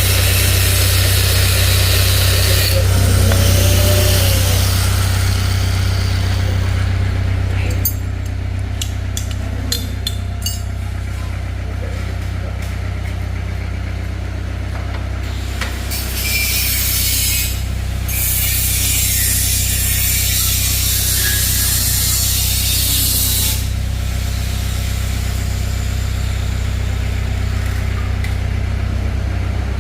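Repair-work noise: a steady low machine hum, like an idling engine, with a power tool or air hiss coming and going and a quick run of clicks about eight to eleven seconds in.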